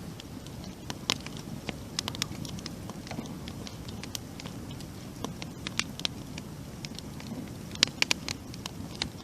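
Campfire burning, the wood crackling with irregular sharp pops over a steady low rush. A quick cluster of louder pops comes near the end.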